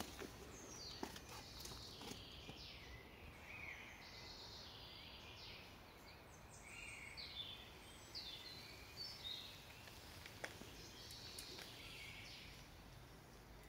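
Faint birdsong: several small birds singing and calling at once, short high chirps and trills, over a low steady hiss.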